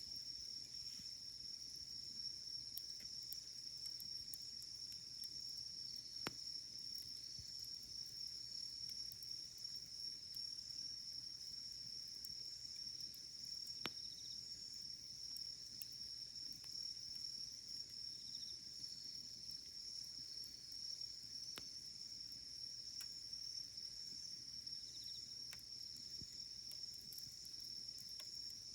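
Steady high-pitched chirring of insects, such as crickets, with a campfire's burning firewood giving a few sharp, scattered crackling pops.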